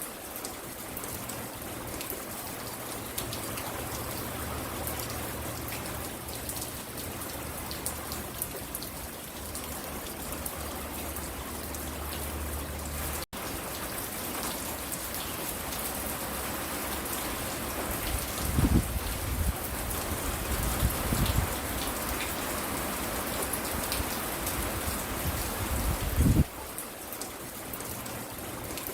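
Steady rain falling, with individual drops ticking close by. It cuts out for an instant about halfway through, and a few short low rumbles come in the second half.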